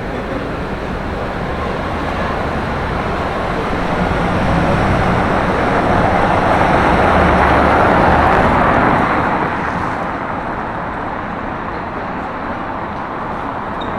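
Street traffic with a vehicle driving past close by: its engine and tyre noise swell to a peak about eight seconds in, then fade away.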